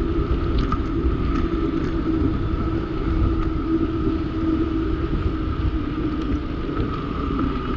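Steady rumble of a bicycle being ridden, with tyre and wind noise and a constant hum.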